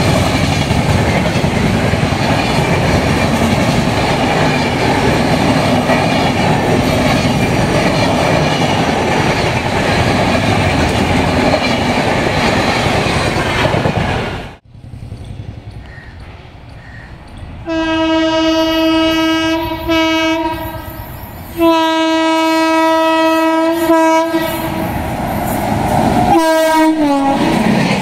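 Express train hauled by a WAP7 electric locomotive passing at high speed, a steady loud rush of wheel and rail noise. After a sudden cut, the locomotive's horn sounds in several long blasts on one pitch. The last blast drops in pitch as the locomotive passes, and the rush of the train comes back in.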